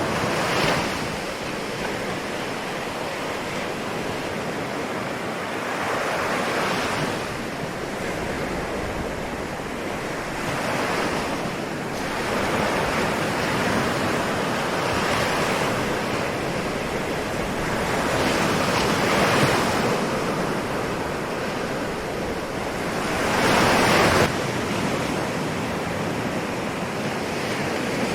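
Ocean waves breaking and washing ashore in a continuous hiss, with a surge every few seconds; the strongest wave breaks a little before the end.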